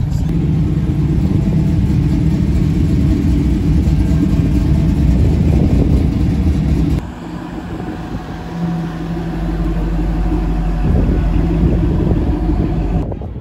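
Engines of classic cars driving slowly past one after another. About seven seconds in the sound changes abruptly to a red 1930s hot-rod coupe's engine, a steadier, lower note.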